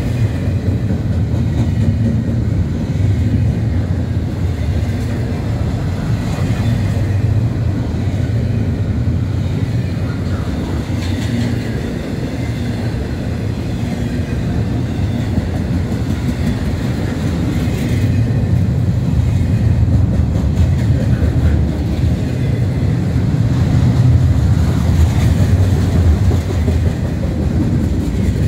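Double-stack intermodal freight train's loaded well cars rolling past: a steady, loud low rumble of steel wheels on the rails.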